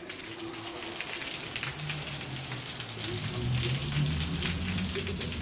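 Rain falling steadily, many drops ticking on a hard surface, with a low steady hum underneath that grows louder about a second and a half in.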